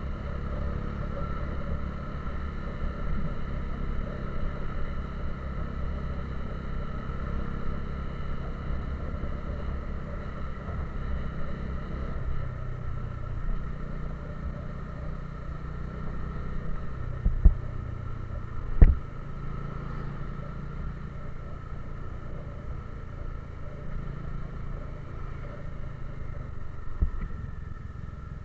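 A vehicle's engine and road noise hum steadily while driving, with two sharp knocks about two-thirds of the way through.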